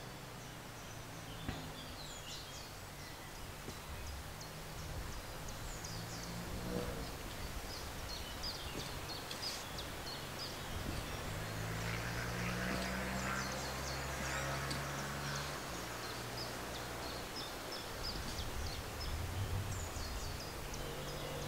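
Wild birds chirping and singing, many short high calls scattered throughout, with a low steady drone for a few seconds in the middle.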